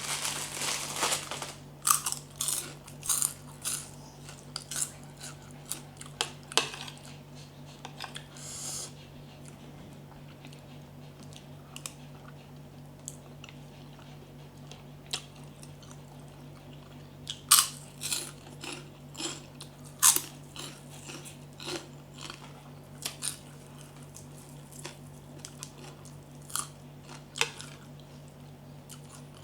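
A person chewing and crunching mouthfuls of santol salad close to the microphone, with irregular sharp crunches and mouth sounds, over a steady low hum.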